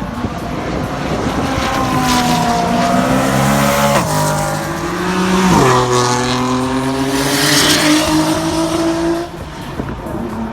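A performance car's engine accelerating hard: the note climbs, drops sharply with an upshift about four seconds in and another soon after, then climbs again. It is at its loudest as the car passes and falls away near the end.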